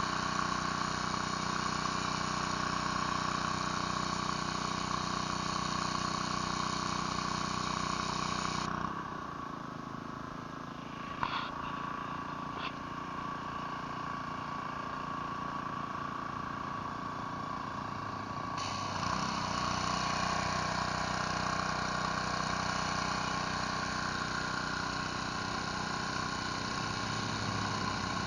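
Gas-engine pressure washer running steadily with a hissing spray from the surface cleaner. About nine seconds in the hiss drops away for about ten seconds, with two sharp clicks, while the engine keeps running; then the spray resumes.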